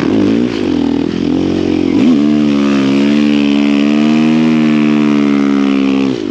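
Snow bike's dirt-bike engine revved in a few short blips, then held high and steady for about four seconds before the revs drop off near the end.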